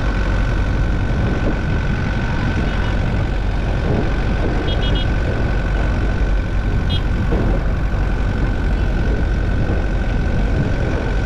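Steady road and engine noise inside a moving car, with a constant high whine.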